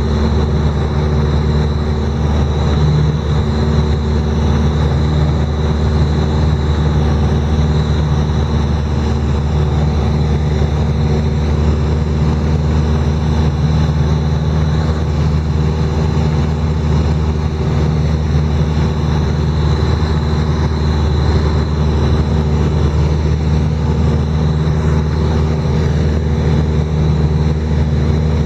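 A steady engine running at an even speed, a constant low drone with no breaks.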